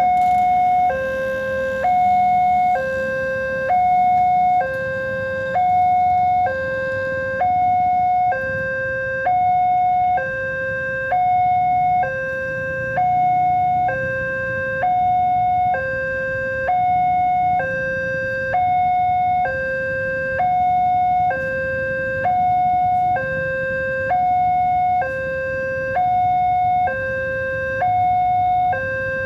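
Electronic warning alarm of a railway level crossing sounding, a high and a low tone alternating steadily in a repeating cycle: the signal that a train is approaching and the gates are closing.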